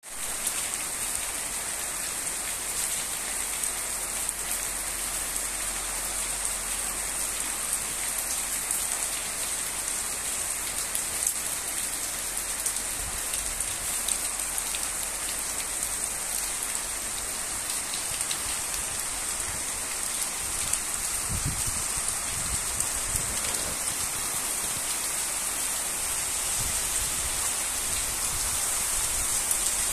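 Torrential rain pouring down, a steady dense hiss thick with the patter of drops. In the second half, low rumbling surges come and go beneath it.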